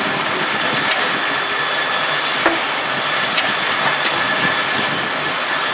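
Sawmill machinery running steadily, with a faint high whine held throughout and a few sharp clicks and knocks, the sharpest about two and a half seconds in.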